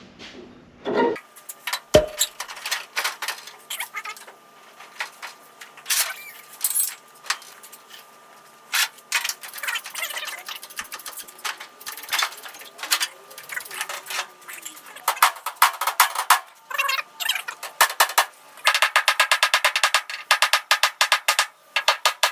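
MIG welder tacking sheet metal, crackling in short bursts, scattered at first and then in longer runs of fast, even crackle over the last several seconds.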